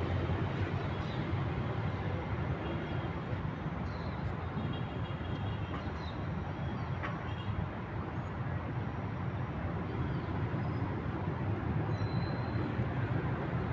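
Steady low rumble of city traffic, with a few faint short high tones now and then.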